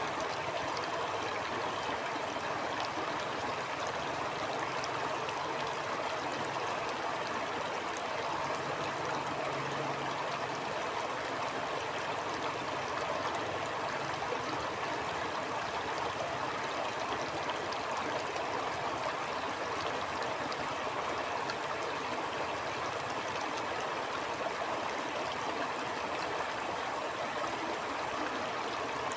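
Stream water flowing and gurgling steadily, an even rushing sound with no pauses or separate events.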